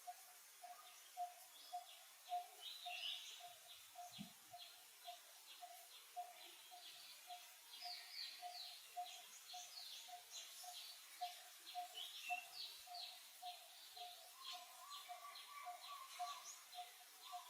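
Faint outdoor birdsong: many short, quick chirps over an evenly repeated low note at about two and a half calls a second, with a brief steady whistle near the end.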